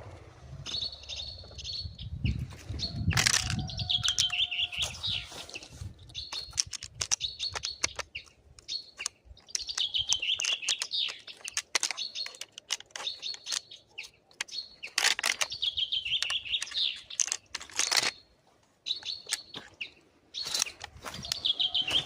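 A songbird singing repeated phrases of high chirps and short falling trills, with sharp clicks between phrases.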